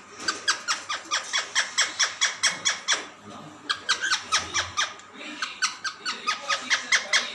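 Pet parrot calling in a quick series of short, falling chirps, about four or five a second, pausing briefly about three seconds in and then carrying on.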